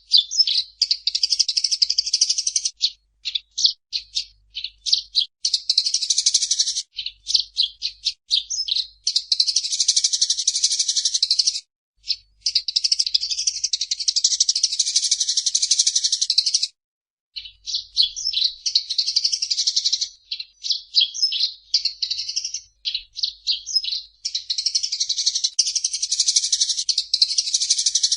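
Eurasian tree sparrows chirping and chattering in fast, dense runs of a few seconds each, broken by brief pauses.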